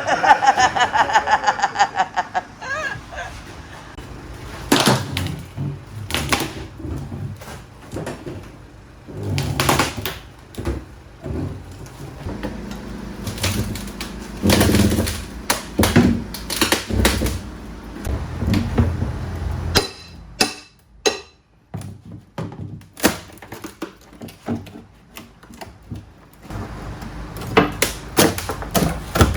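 Irregular knocks, thuds and clatter of wooden floorboards being pried up with pry bars and knocked loose.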